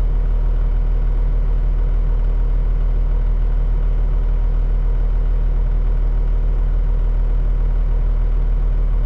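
Skid steer engine running at a steady speed, with an even low drone and no change in pitch or level.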